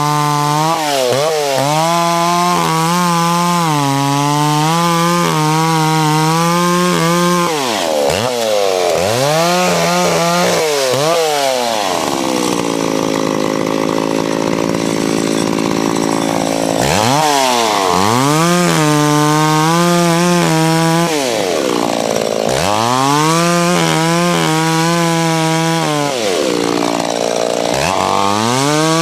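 Two-stroke McCulloch Pro Mac 650 chainsaw with a 28-inch bar running hard through springy branches. Its pitch drops and climbs back again and again as it goes in and out of the cut, with a lower, steadier stretch near the middle.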